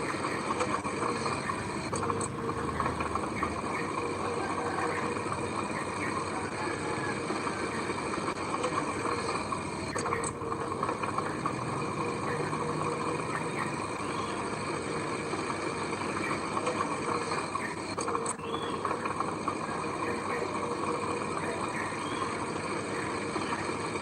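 Heavy machinery, a bulldozer or dump truck, with its diesel engine running steadily.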